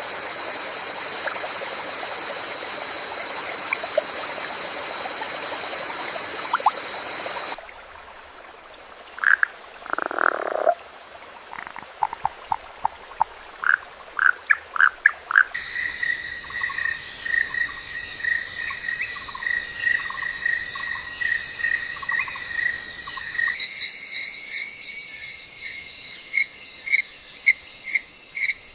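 Rainforest frogs and insects calling. At first a steady hiss of rain sits under high, steady insect trilling. After about seven seconds it gives way to repeated short frog calls, then to rapid pulsed calls over insect trilling, with sudden changes in the mix.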